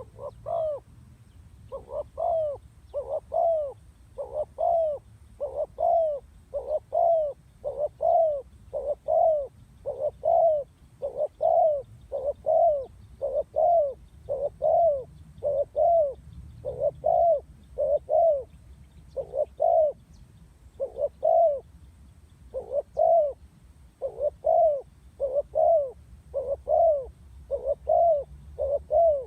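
A female spotted dove cooing, a long unbroken run of short, low coos at about one and a half a second: the call used to rouse male doves for trapping.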